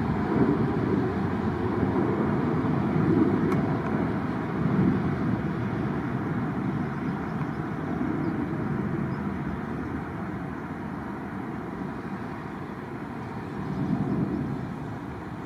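Jet aircraft engine noise: a steady rumble that slowly fades.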